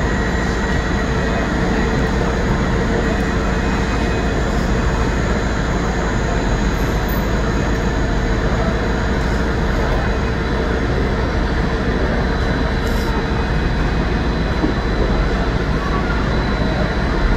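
Steady diesel drone of trains at a station: a diesel multiple unit standing alongside and a Class 158 diesel unit running in slowly towards the platform. The sound stays level, with a few steady humming tones.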